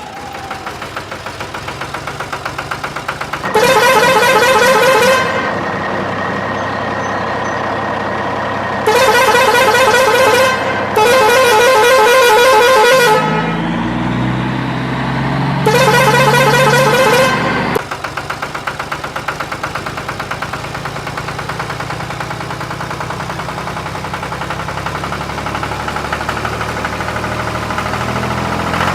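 Vehicle horn blasting four times, each blast a second and a half to two seconds long with a warbling tone, over a steady running engine sound with a fast, even beat.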